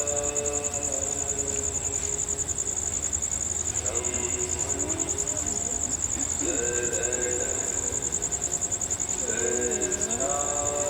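Crickets chirring steadily in a high, fast-pulsing trill. Fainter human voices rise and fall underneath, about four seconds in and again near the end.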